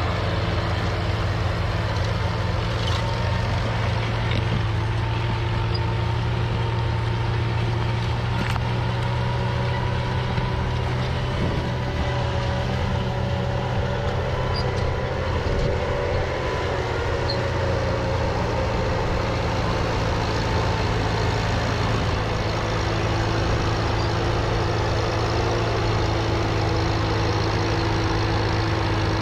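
Tractor engine running steadily, a constant low drone with a few steady higher tones over it.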